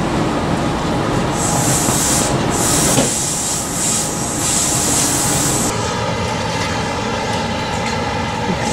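Electric train running past close by, with a high wheel squeal from about a second and a half in until nearly six seconds in, then a steady hum of several even tones.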